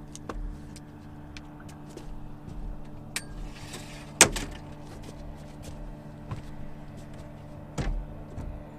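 Boat motor running steadily at trolling speed, a constant hum, with a few sharp clicks and knocks on top, the loudest about four seconds in and another near the end.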